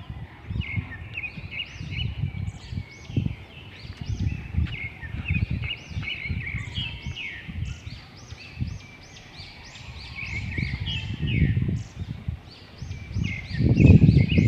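A flock of small birds chirping: many short, rapid, repeated chirps overlapping throughout. Underneath is an uneven low rumble that swells loudly near the end.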